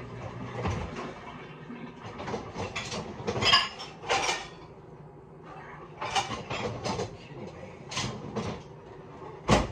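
Rummaging in a low kitchen cupboard: a string of clatters, clinks and knocks of things being moved about, the loudest about a third of the way in and another sharp knock near the end.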